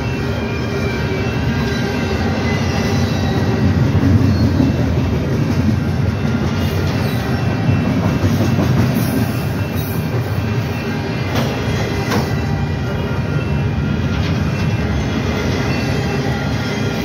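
A CP Rail intermodal freight train's container cars passing close by, a steady rolling rush of steel wheels on rail. A couple of sharp clanks come about twelve seconds in.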